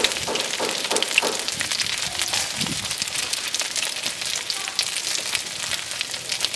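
Food frying in hot oil: a steady sizzle with many fine crackles.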